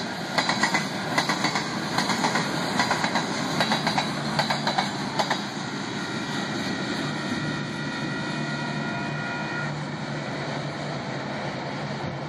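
Loaded covered hopper cars of a frac sand train rolling past, their wheels clicking rapidly over the rail joints. After about five seconds the clicking stops and a steady rolling rumble remains, with a faint high whine for a couple of seconds in the middle.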